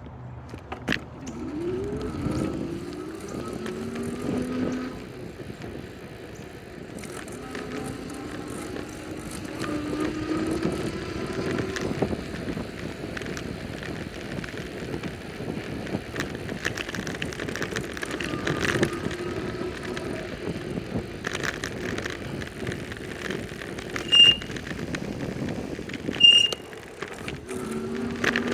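Riding a bicycle on the road: steady rushing wind and tyre noise, with several rising, engine-like whines. Two short, sharp, high beeps come about two seconds apart near the end.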